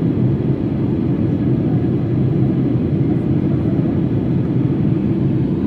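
Boeing 757-200 jet engines running at takeoff power, a steady deep rumble.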